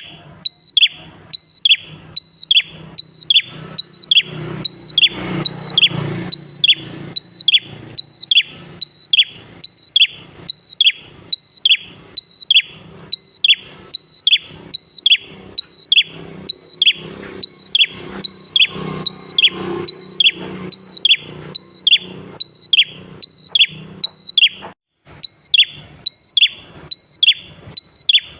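A prinia (prenjak klawu) calling: a sharp, high note that drops quickly in pitch, repeated about twice a second in a steady, insistent series, with one brief pause near the end.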